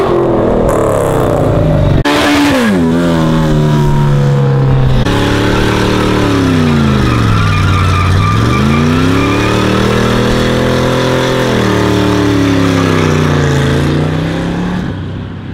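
Car engines revving hard during smoky burnouts, spinning the rear tyres. The revs fall and climb in long swoops lasting a few seconds, with abrupt jumps where the shots change.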